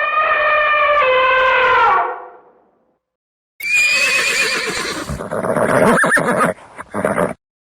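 A long, steady, horn-like animal call fades out. After a short silence a horse whinnies, starting with a high wavering squeal and breaking into rougher, lower nickering.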